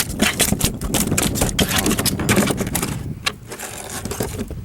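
Rapid, irregular scraping and clicking handling noise close to the microphone, dying down over the last second or so.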